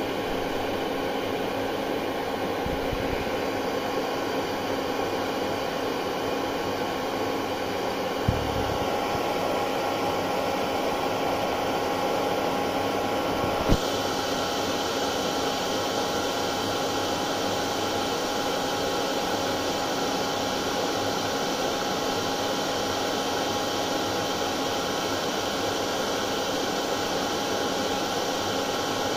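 Hair dryer running continuously: a steady blowing hiss with a constant motor hum, used as white noise to settle a colicky baby. A small knock about eight seconds in and a sharp click about halfway, after which the hiss changes slightly.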